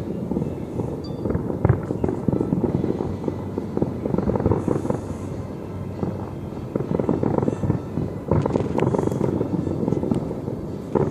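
Fireworks going off in a dense, continuous barrage of overlapping bangs and crackles, with a few sharper bangs about two seconds in and again around eight to nine seconds.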